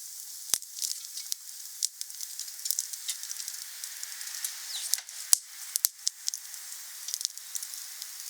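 Wood campfire crackling: a steady hiss of burning wood with many small sharp crackles and a few louder pops.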